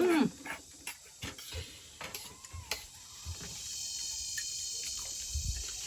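Insects chirring in a steady, high, even trill that comes in about halfway through, with a few faint knocks. It opens on the tail end of a loud call.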